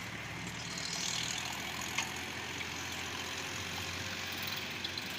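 Tractor loader's engine running steadily, with one brief sharp knock about two seconds in.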